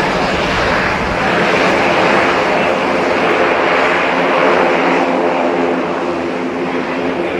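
Airliner engines running loud and steady, a broad rushing noise with a steady low hum of several tones underneath.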